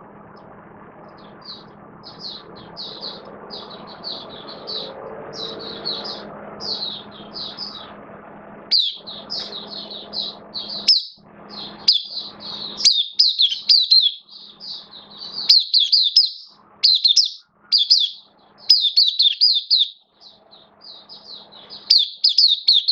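White-eye singing a fast, high twittering song of rapid chirps, louder and more continuous after about nine seconds, over a low hum that drops in and out in the second half.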